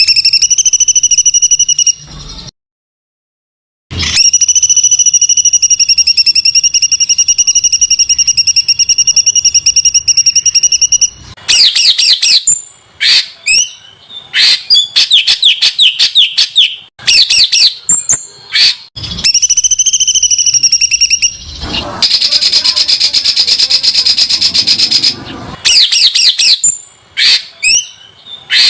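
A songbird sings loud, rough, very rapid bursts, the 'tembakan kasar' style used to train cage birds. Two long buzzing trills of several seconds each give way to quick runs of fast down-slurred notes, with a harsh, rasping phrase a little after the middle.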